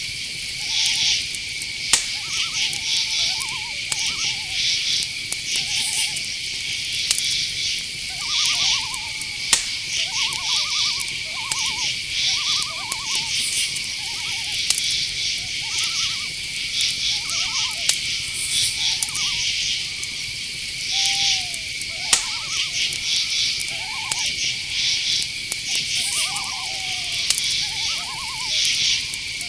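Night-time insect chorus: crickets chirping in quick pulsed bursts over a steady high-pitched drone. Short, lower calls from another night animal repeat every second or two throughout, with a few faint clicks.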